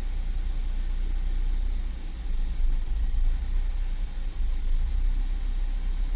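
Ford 2.0 EcoBoost four-cylinder engine idling, a steady low rumble.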